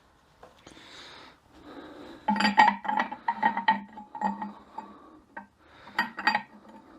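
Metal transmission parts clinking together as they are handled, with a steel part ringing on after the strikes: a quick run of clinks from about two seconds in, then a few more near the end.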